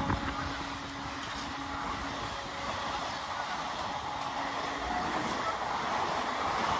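Express train running on the track with a steady rushing rumble, while the tone of its horn fades out over the first two seconds.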